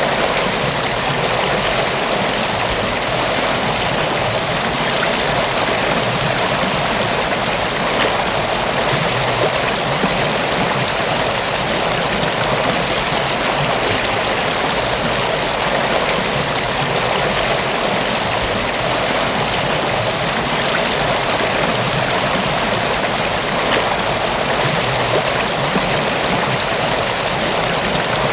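Mountain waterfall: water falling and rushing in a steady, dense hiss that does not change.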